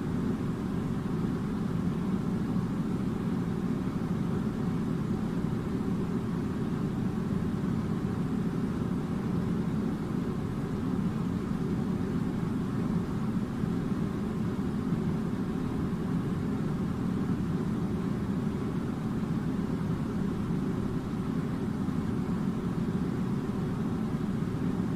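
A steady, unchanging low mechanical drone with a light hiss on top.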